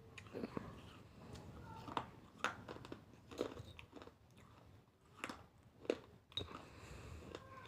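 Crunchy food being bitten and chewed, with a series of irregular crunches.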